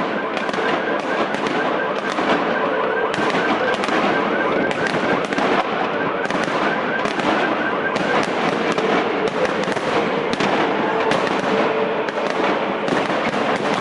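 Fireworks salute going off: a dense, unbroken run of overlapping bangs and crackling with no pause.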